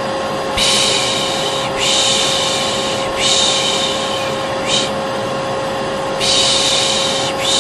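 Vacuum cleaner running with a steady drone and a constant hum. Over it, a repeated 'shh' shushing sound: long hushes of about a second each, with a short one now and then, the 'piş piş' hush used to soothe a baby.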